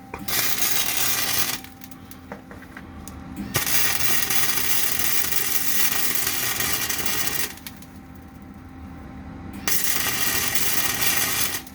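Wire-feed welder arc crackling in three runs of welding, about a second and a half, four seconds and two seconds long, with short pauses between them. A low steady hum runs underneath.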